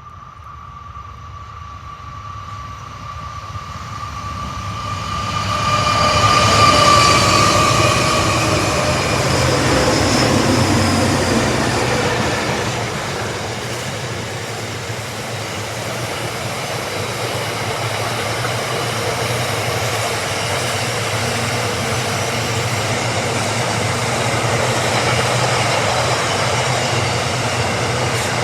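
Container train passing: the lead diesel-electric locomotives draw near with a steady engine whine, loudest about seven seconds in. The locomotives then give way to a long, steady rumble and rattle of container wagons rolling by.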